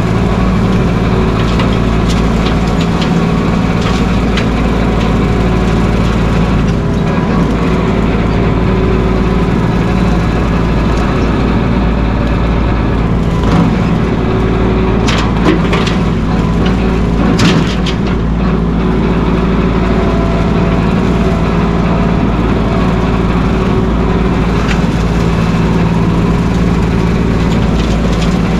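Mahindra 1626 sub-compact tractor's diesel engine running steadily, with a few sharp knocks about halfway through.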